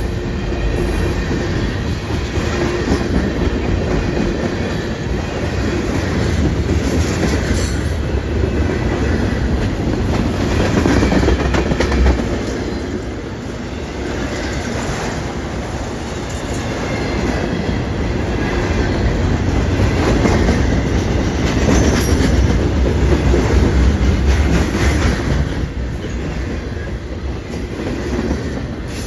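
A train rolling past, its wheels clattering over the rails over a steady heavy rumble that swells and dips.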